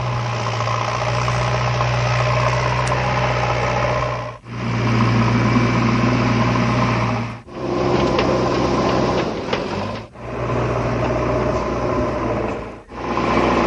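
Excavator diesel engine running steadily with a low hum, cut into several short segments by brief sudden dropouts.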